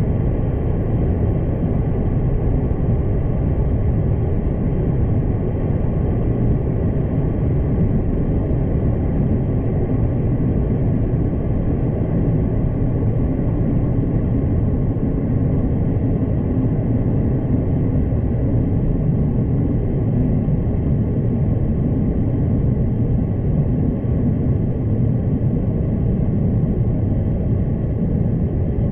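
Steady rumble of a passenger train running at speed, heard from inside the carriage: wheels on the rails and the carriage's running noise, even throughout with no distinct rail-joint clicks.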